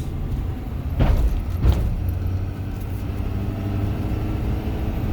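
Box truck driving, its engine and road noise a steady low drone heard from inside the cab. Two heavy thumps come about a second in, less than a second apart.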